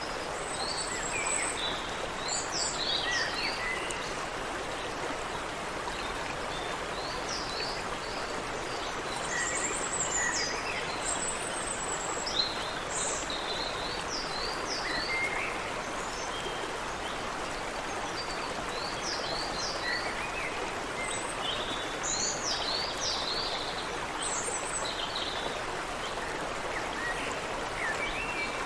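Water running steadily in a creek, with birds chirping over it in short clusters of quick high calls.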